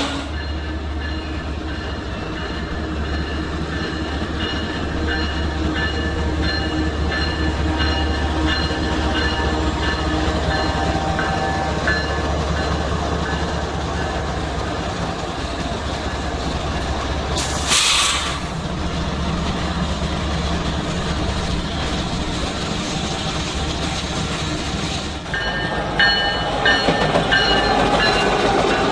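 Freight train passing close by: a steady low diesel locomotive drone under wheels clattering over the rail joints, with thin metallic squeal tones. There is a brief loud rush about 18 seconds in, and the sound changes abruptly about 25 seconds in.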